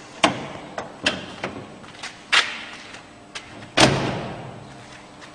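A series of clunks and thumps from a car's body being handled: knocks at about a quarter-second, one second and two and a third seconds in, then the loudest clunk about four seconds in, fading away over about a second.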